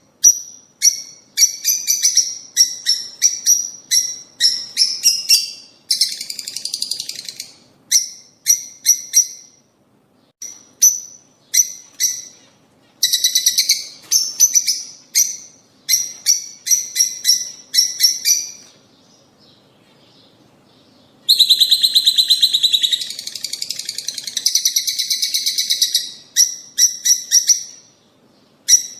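Lovebirds chirping in rapid runs of sharp, high-pitched calls. A short pause about two-thirds of the way in is followed by a longer buzzy chatter, then more quick chirps.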